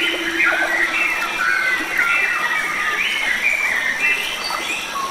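Several wild songbirds singing at once in a continuous chorus of chirps and warbling phrases, over a steady high insect drone.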